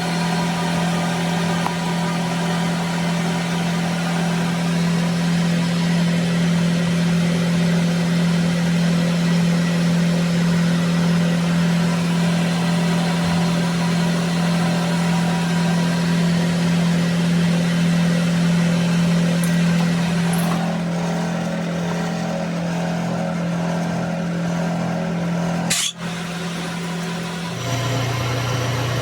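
An engine running at a steady speed with a constant hum, then settling to a lower, slower speed near the end, just after a sharp click.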